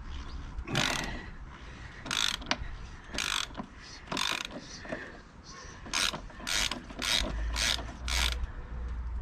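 Ratchet spanner being worked in short strokes: about nine bursts of ratcheting clicks, about a second apart at first, then quicker, about two a second, in the second half.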